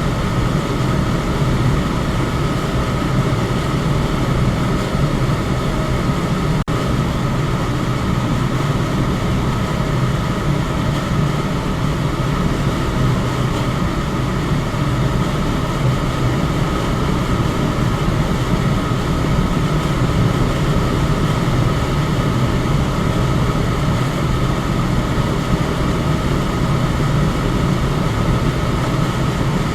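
Electric fan running steadily: an even rush of air over a low motor hum, with one momentary dip in level about six and a half seconds in.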